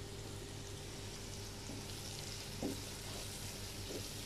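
Onion-tomato masala with spice powders sizzling in a nonstick frying pan over a low gas flame. About halfway through it is stirred with a wooden slotted spatula, with two soft knocks of the spatula against the pan.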